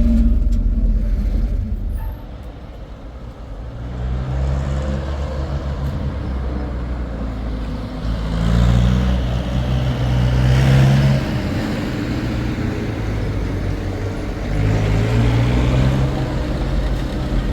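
A motor vehicle's engine running, its pitch shifting up and down, with a low rumble throughout and louder surges three times.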